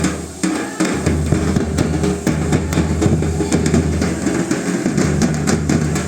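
Drums beaten in a quick, dense rhythm as tribal dance music.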